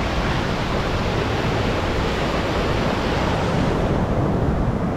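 Ocean surf washing in the shallows, a steady rush of water with wind rumbling on the microphone.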